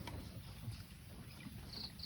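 Light drizzle ticking on and around a raft on a pond, over a low wash of water and rumble, with a brief high chirp from a small animal near the end.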